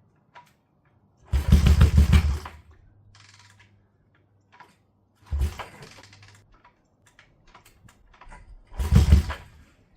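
1971 Honda CB350 Scrambler's parallel-twin engine being kick-started three times, each kick turning it over for about a second with no sign of it catching and running, though it is getting a spark.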